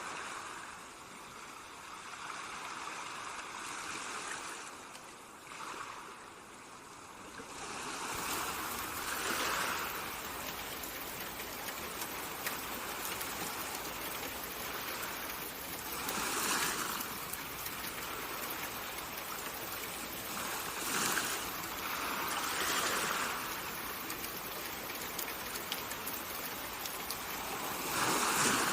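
Water ambience: a steady wash of ocean-wave noise that swells and fades every few seconds, growing fuller about eight seconds in.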